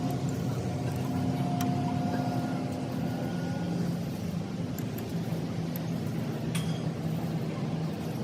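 Engine running steadily at an even speed, with a few light sharp clicks.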